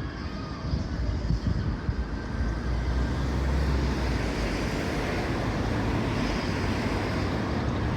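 A vehicle passing close by, with a deep rumble that swells about three to four seconds in and then gives way to a steady rushing noise.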